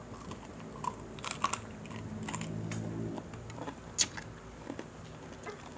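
Close-miked crunching and chewing of crispy deep-fried pork knuckle (crispy pata): a series of irregular crisp clicks, the sharpest about four seconds in. A low hum sounds for about a second midway.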